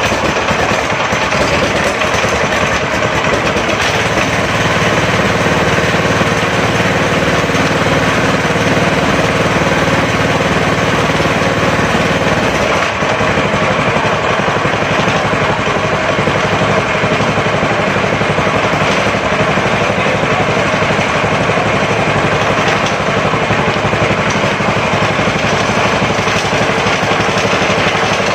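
Fuji Star small gasoline engine running steadily.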